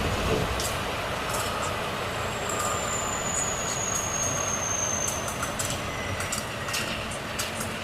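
Volvo FH truck on the move, with road noise and irregular cab rattles and clicks. A thin, high brake squeal sets in a couple of seconds in and falls slightly in pitch over about three seconds as the truck slows.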